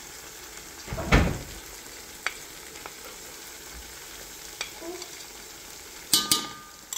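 Onion and tomato frying in oil in a metal pot, sizzling steadily as ground spices are spooned in. A loud dull knock about a second in and a few light clicks follow, then near the end a spoon strikes the pot with a short metallic ring.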